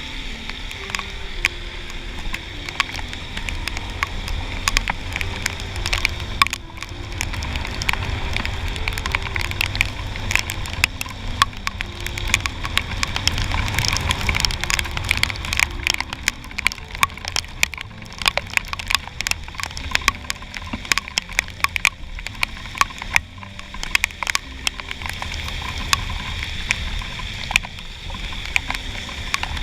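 Riding a Honda Click 125i scooter in the rain, heard through a helmet-mounted action camera's housing: many sharp ticks of raindrops hitting the camera case over a steady wind rumble and the scooter's single-cylinder engine, whose pitch steps up and down.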